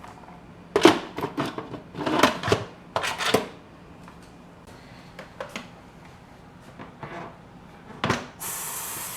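Pressure cooker lid being handled and closed: a run of knocks, clicks and scraping clunks, with a few lighter knocks after. Near the end a steady hiss of steam starts and keeps going.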